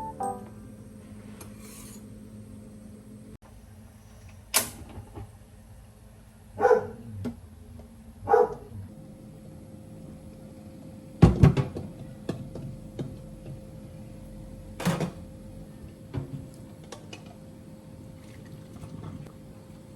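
Household objects being handled: about half a dozen separate knocks and clatters, the loudest around the middle, over a steady low hum.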